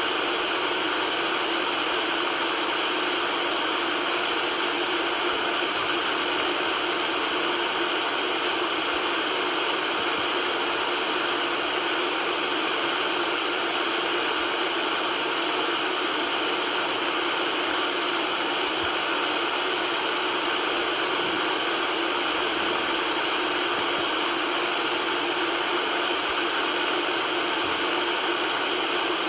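Steady, unchanging white noise: an even hiss that sits mostly in the mid and high range, with little bass.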